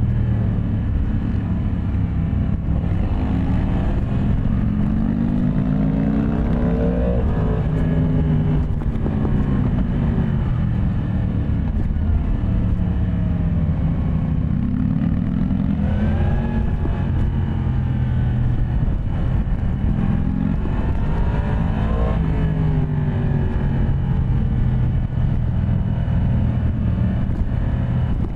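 Yamaha MT-10 SP's crossplane inline-four engine under way, its pitch climbing as it accelerates and dropping back several times through shifts and roll-offs.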